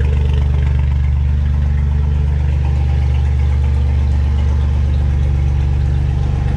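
Engine idling steadily after a cold-weather jump start from a second battery, its charging system putting out voltage.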